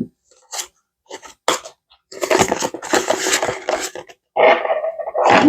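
Paper money and envelopes being handled: a few light clicks, then two spells of rustling and crinkling as bills are shuffled and tucked into cash envelopes.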